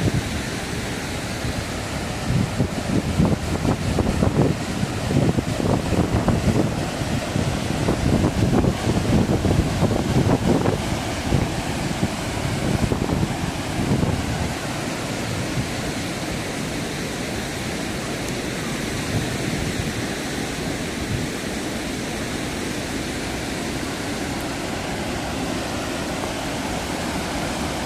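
Waterfall rushing, a steady loud hiss of falling water. Through the first half, irregular low buffeting rides over it, which then settles to an even rush.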